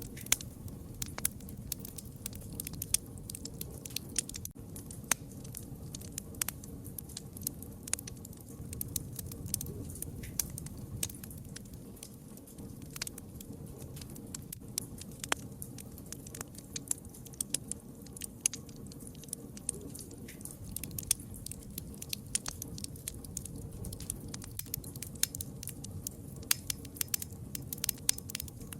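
Wood fire crackling: many irregular sharp pops and snaps over a low steady rumble of burning.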